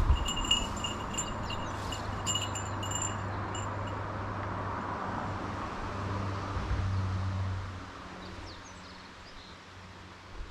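A small metal bell jingling in quick repeated strokes for about the first three seconds, then fading, over a steady outdoor hiss.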